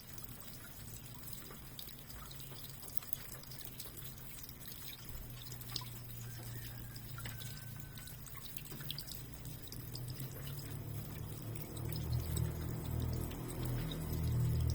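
Water dripping and trickling, with scattered small drips, under a low, steady musical drone that grows louder in the last few seconds.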